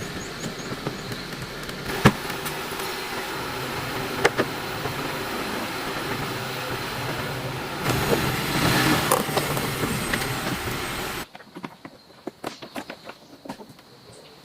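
A vehicle driving, steady running noise with a low hum and a few sharp knocks. It cuts off suddenly about 11 seconds in, giving way to quieter scattered small clicks and taps.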